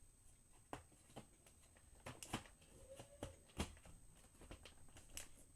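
Faint, scattered clicks and light knocks, about seven of them, from parts of a switched-off vacuum cleaner being handled and fitted back in place.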